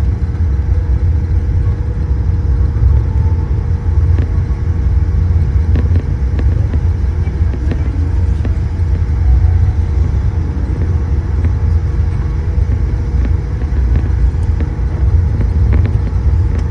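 Steady low rumble inside a Boeing 787-8 airliner cabin on the ground, with a constant hum and a few faint clicks.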